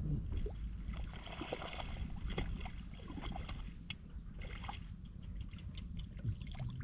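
Shallow water sloshing and trickling, with many small scattered splashes and ticks over a steady low rumble.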